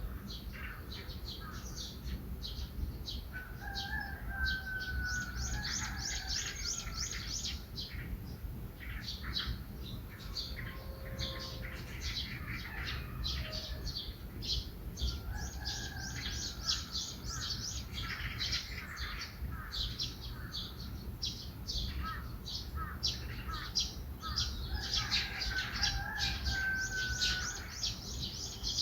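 Morning birdsong: many birds chirping rapidly, with a lower whistled phrase that repeats about every ten seconds. A steady low rumble runs underneath.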